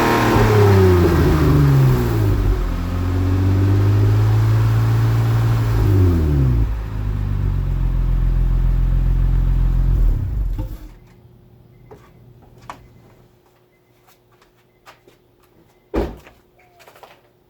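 Honda Accord V6 with a cat-deleted Magnaflow 2.5-inch exhaust revving, its pitch falling, climbing and holding a few times, then the engine shuts off about ten and a half seconds in. Afterwards only faint clicks and a single thump near the end.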